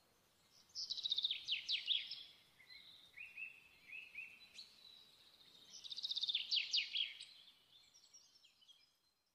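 A songbird singing: two bursts of fast trills, one about a second in and another around six seconds, with shorter chirps in between.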